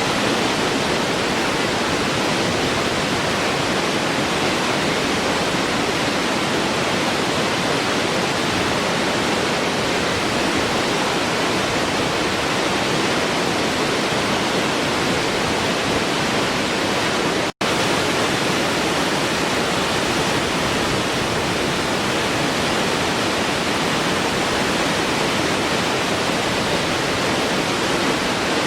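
Waterfall: a steady, even rush of falling water that drops out for an instant about two-thirds of the way through.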